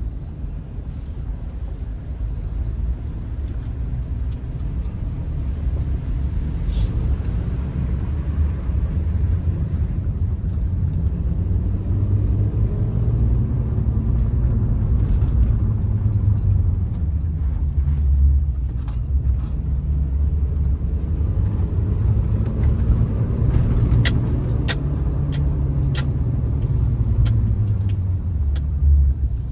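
Car engine and road rumble heard from inside a moving car, a low drone that swells and eases a few times. Several sharp clicks sound near the end.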